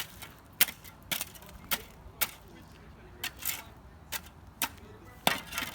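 Metal shovel scraping and striking broken rubble, about ten sharp clinks and scrapes at roughly two a second.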